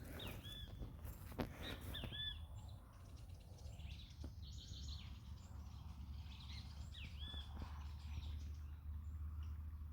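Wild birds chirping outdoors: a few short, arched chirps, about half a second, two seconds and seven seconds in. A steady low rumble and a few faint clicks run underneath.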